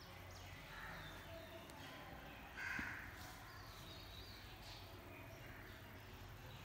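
Faint bird calls over quiet room ambience, with one louder, short call about two and a half seconds in.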